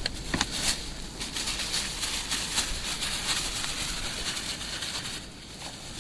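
Chicken frying in a pan of oil and its own juices, a steady sizzle full of fine crackles; the hiss eases a little about five seconds in.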